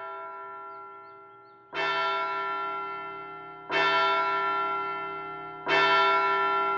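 A large bell tolling slowly, struck about every two seconds. Each strike rings on and fades, and the last three are louder than the first.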